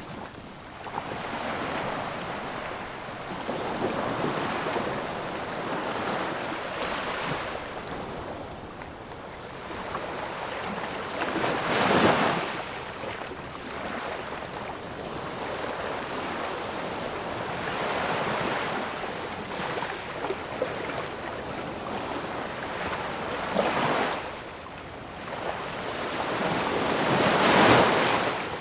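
Ocean waves washing onto a shore, a steady rush with louder breaking swells every few seconds, the biggest about twelve seconds in and near the end.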